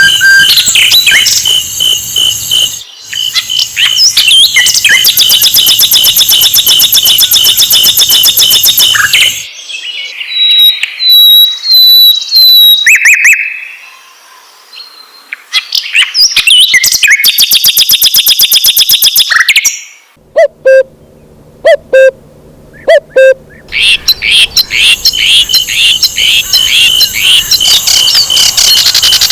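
Sikatan londo flycatcher singing a loud, fast stream of high chirps and trills that repeat in quick rhythm. The song breaks off twice, with a few scattered sharp clicks in the second pause.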